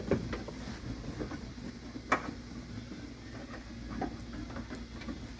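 Scattered small clicks and knocks of door-latch cable clips and rods being handled and fitted, with one sharper click about two seconds in.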